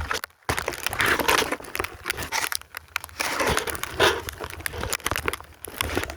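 Snow crunching and scraping right against a phone's microphone: a dense, uneven run of crackles and crunches over a low rumble.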